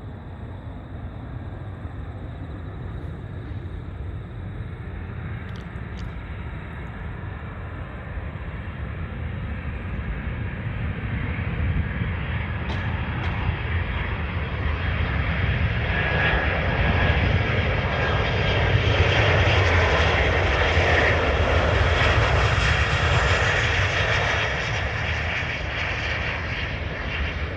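Boeing 737 jet airliner's engines, the noise growing steadily louder as the aircraft approaches, loudest about twenty seconds in, then easing off slightly as it passes.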